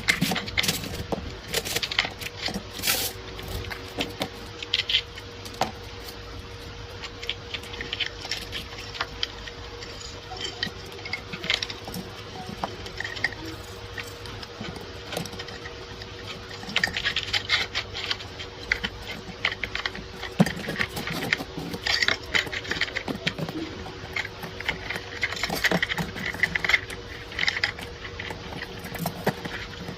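Irregular metallic clicks, clinks and scraping from gun parts and tools being handled during a hand repair, over a steady hum. The clinks come more often in the second half.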